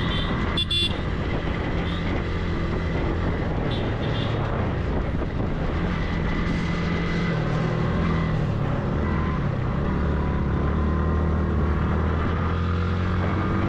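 Motorcycle engine running at road speed under a steady rushing noise, its low note shifting a little as the ride goes on.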